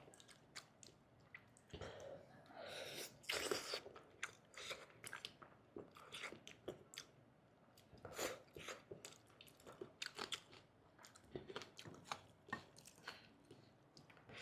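A person chewing food close to the microphone, with many small mouth clicks and a few louder bites.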